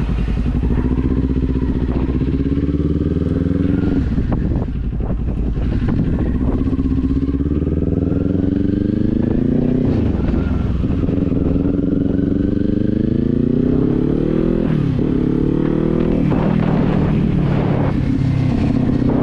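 Kawasaki Z400's parallel-twin engine pulling away under acceleration. Its pitch climbs and drops back at each of several upshifts, then holds steady near the end, with wind rumbling on the microphone underneath.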